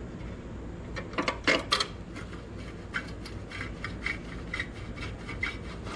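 Hand screwdriver running screws into a headlight's trim ring: short scraping, rasping strokes, a louder cluster about a second in, then a quicker run of brief strokes toward the end.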